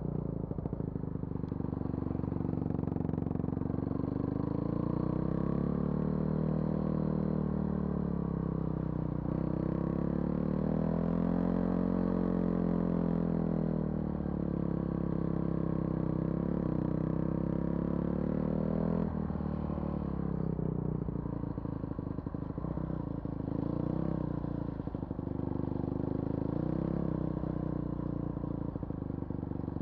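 Vehicle engine running while driving on a rough forest road, its pitch rising and falling with speed and dropping suddenly about 19 seconds in, with rattling and knocking from the rough surface throughout.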